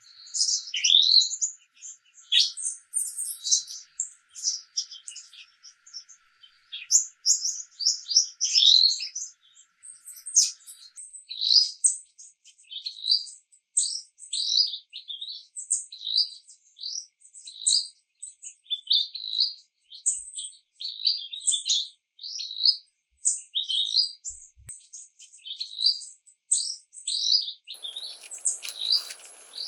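Birds chirping and singing, with short high calls. At first several birds overlap in a busy mix, then a steady run of short chirps follows, about one or two a second. A hiss comes in near the end.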